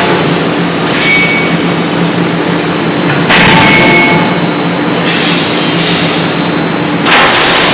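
Loud forging-shop machinery noise: a steady hum with swells of hissing that rise suddenly about three seconds in and again near the end, without distinct hammer blows.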